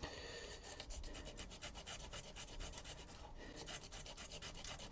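Fine sandpaper on a wooden block rubbed back and forth over the end of a fishing rod: faint, quick, even scratching strokes. It is taking the paint off and thinning the rod end very slightly so the broken tip can be glued back on.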